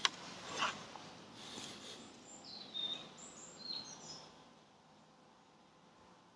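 A few short, high bird chirps, some gliding in pitch, between about two and a half and four seconds in, over faint outdoor background hiss. A sharp click right at the start and a soft rustle just after it.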